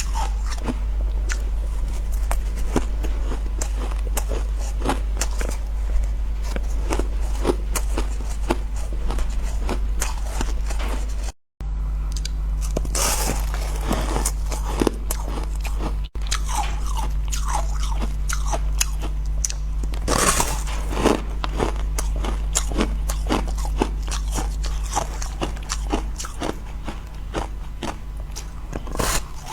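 Close-up crunching of powdery frozen ice being bitten and chewed, a dense run of crackly crunches with a few louder bites, over a steady low hum. A brief dropout about a third of the way in marks an edit.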